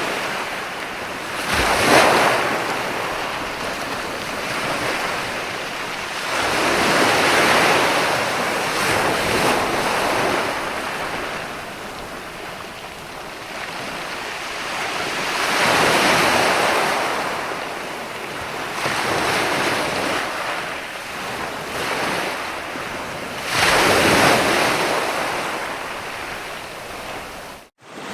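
Ocean surf breaking and washing in slow, repeating swells: each wave rises into a rush of noise and fades over several seconds, with the strongest breaks about 2 seconds in and near the end. The sound cuts out for an instant just before the end.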